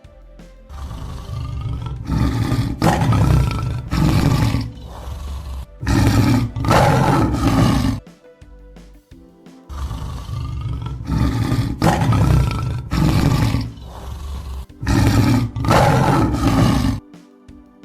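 Lion roaring in two bouts of several deep, rough roars each, with a short pause between the bouts.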